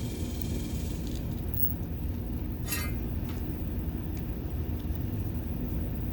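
A steady low background rumble, with a short metallic rattle about halfway through, like mounting hardware being handled, and a faint click just after.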